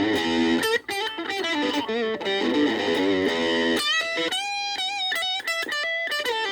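Gaban Les Paul-type electric guitar played through a VOX Soundbox Mini amp: picked notes and chord fragments, then high single notes with vibrato about four seconds in. The guitar's volume is rolled back, giving a crisp ("kari-kari") tone that keeps its highs.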